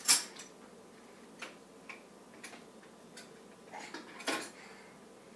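Metal silverware clinking as pieces are handled: a sharp clink at the start, a few light ticks, and a short clatter about four seconds in.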